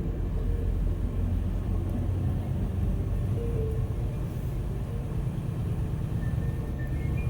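Semi truck running down the road: a steady low rumble of engine and tyres.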